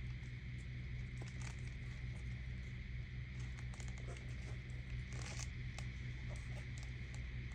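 Scattered rustles and light clicks from packaging and shoes being handled, over a steady low hum.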